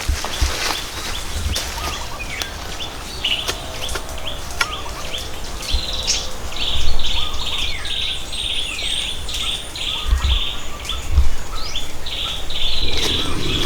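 Wild birds singing: a fast series of short, repeated high notes runs for several seconds through the middle, with other chirps around it. A few sharp knocks come in the first half.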